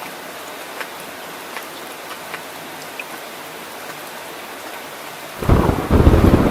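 Heavy rain falling steadily, with scattered drops ticking close by. About five and a half seconds in, a loud, deep rumble of thunder breaks in and goes on rolling.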